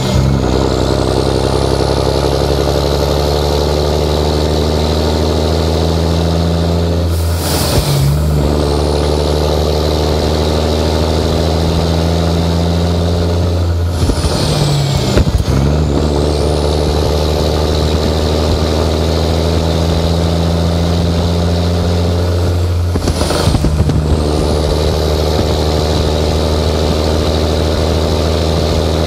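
Straight-piped 11.1 L Series 60 Detroit diesel pulling hard under a heavy load, shifting through an Eaton 13-speed about every eight seconds, one shift right at the start. At each shift the exhaust note breaks off and the turbo whine drops, then climbs again as the engine takes the load back.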